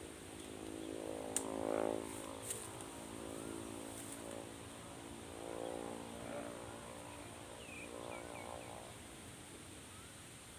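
A small engine running with its pitch and loudness rising and falling several times, loudest about two seconds in. There are a few sharp clicks early on and short bird chirps about three-quarters of the way through.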